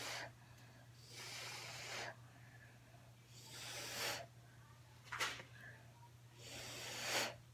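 Short bursts of blown air, about four, each lasting up to a second with gaps between, pushing wet poured acrylic paint across a canvas.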